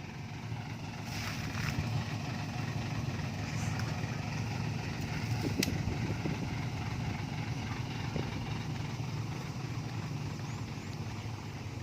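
A motor vehicle's engine running with a steady low rumble, with one sharp click about halfway through.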